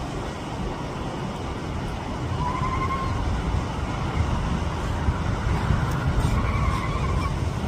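Steady rumble of road traffic and wind. Two faint, drawn-out high calls come through about two and a half seconds and six seconds in.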